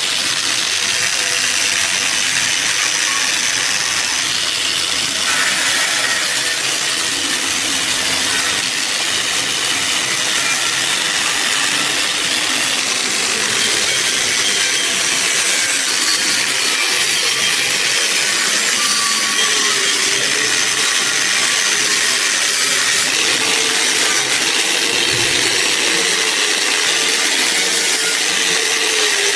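Power tool running steadily on the jack's metal, a continuous hissing grind.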